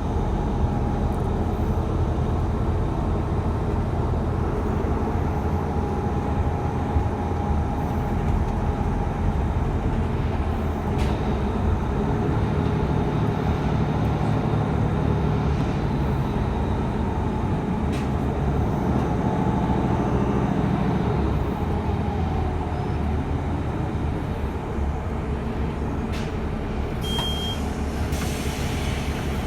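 City bus ride: steady engine and road rumble heard from on board. A short high beep sounds near the end, followed by a brief hiss.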